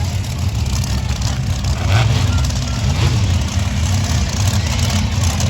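Monster truck engine running with a deep, steady rumble that swells slightly about two and three seconds in.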